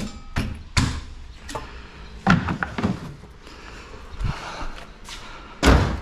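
Hard knocks and clacks of parts being pulled apart by hand from a scrapped appliance, with the loudest thump near the end.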